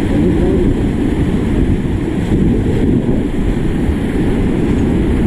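Steady, loud rumble of wind buffeting the microphone, with a rushing noise and no clear tones.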